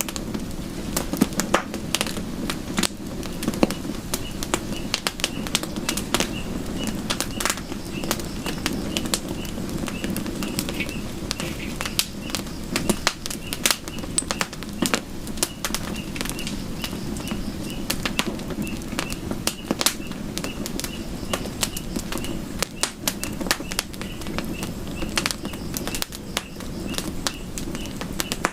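Campfire burning: wood crackling and popping in many sharp snaps over a low, steady rumble of flame. An evenly repeating high chirp runs through most of it.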